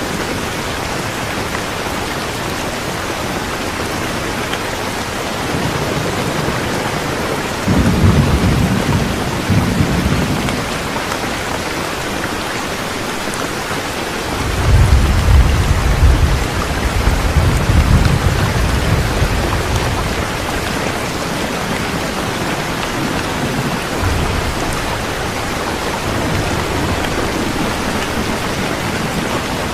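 Steady rain with rolls of thunder. A low rumble comes about eight seconds in, then a louder, longer roll from about fifteen to nineteen seconds in, and a fainter one later.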